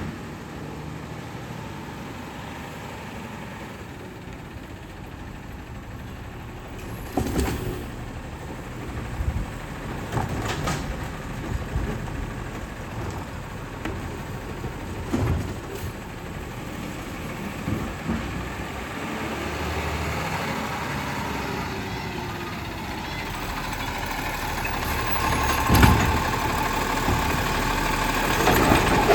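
Garbage truck running, with a string of sharp clanks and bangs. The engine grows louder over the last several seconds.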